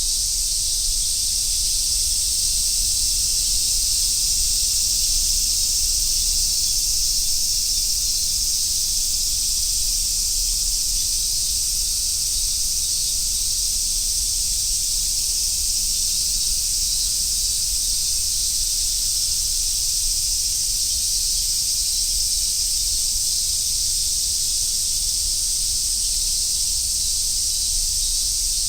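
Dense chorus of summer cicadas, large brown cicadas and robust cicadas among them, making a steady high sizzling hiss without a break, with a faint low rumble underneath.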